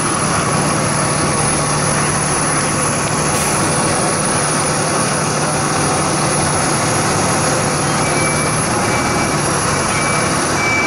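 Large vehicle engine running close by: a loud, steady rushing noise with a low hum under it that drops out near the end.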